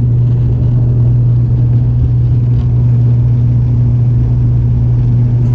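Twin turboprop engines and propellers of an ATR 72-600, heard inside the cabin: a loud, steady low drone with a strong constant hum.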